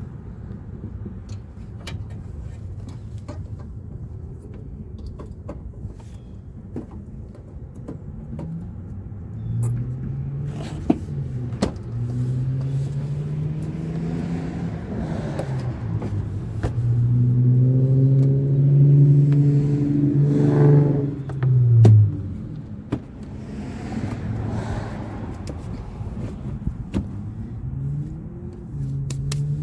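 A car engine running with a low rumble. In the middle a louder engine note rises and falls for several seconds before stopping abruptly. Scattered sharp clicks run through it.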